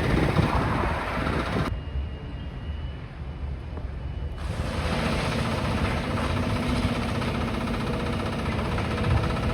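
Demolition excavator's diesel engine running steadily with a low rumble. The sound goes briefly muffled about two seconds in and comes back a couple of seconds later.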